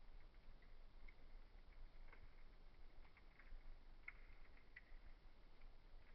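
Wood fire crackling faintly in a fireplace: irregular small snaps, a few a second, over a soft steady hiss.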